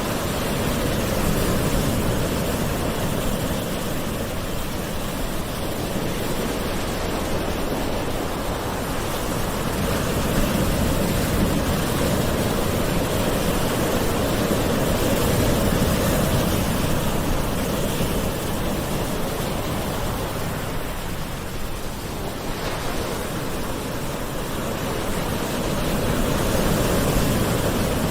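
Gentle ocean waves washing on a shore: a continuous rushing surf that swells and eases slowly over several seconds.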